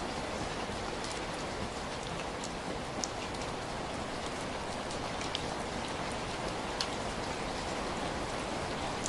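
Heavy rain falling steadily, a dense even hiss with individual drops ticking sharply here and there.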